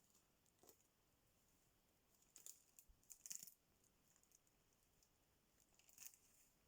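Near silence with a few faint, short crackles and rustles, clustered about two to three and a half seconds in and again near the end.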